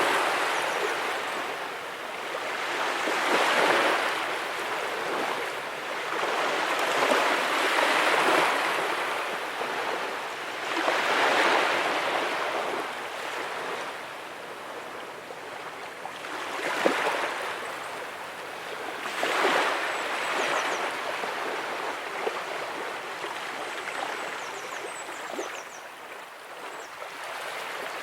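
Ocean waves breaking and washing onto the shore, the wash swelling and fading every few seconds. One short sharp knock partway through.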